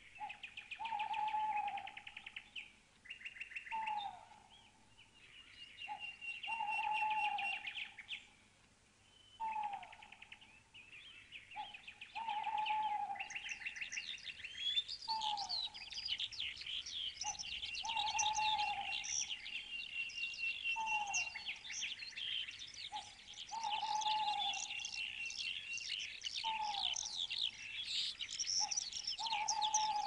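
A mix of birds calling. A lower call, a short note followed by a longer falling one, repeats about every two seconds over rapid high chirping and twittering, which becomes denser and busier about halfway through.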